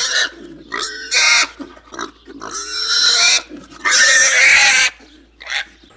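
Pig vocalizing in a series of loud, harsh cries, the longest lasting about a second each.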